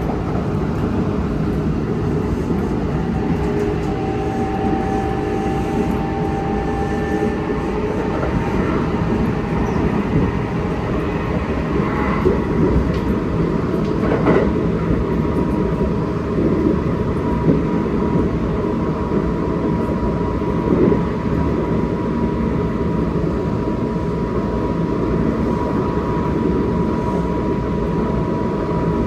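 Kintetsu Osaka Line electric train running, heard from inside the car: a steady rumble of wheels on rail, with thin whining tones from its Hitachi GTO-thyristor VVVF inverter and traction motors. A few short knocks come from the track, and about halfway through a single steady whine sets in and holds.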